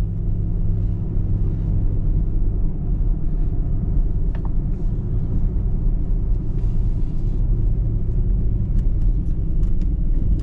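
Car driving: a steady low rumble of engine and road noise, with a few faint clicks near the end.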